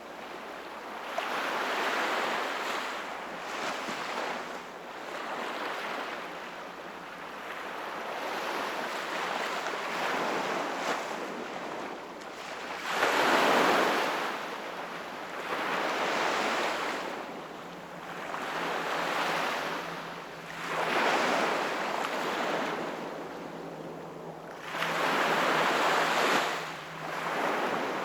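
Sea waves washing onto the shore, one surge after another every few seconds, each swelling and then fading, with a couple of larger breakers standing out.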